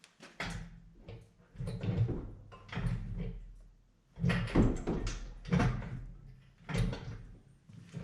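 Irregular metal clunks and scraping, six or seven bursts, as an engine and transmission are jacked and worked loose from a car, over a low steady hum.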